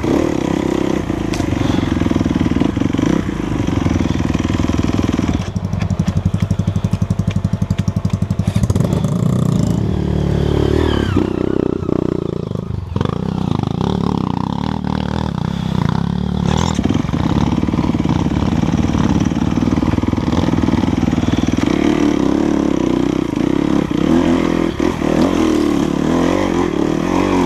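Enduro dirt bike engine running under load on a trail, its pitch rising and falling with the throttle. About five seconds in it drops to a slower, pulsing chug for a few seconds, then revs up and down before settling back to a steady higher note.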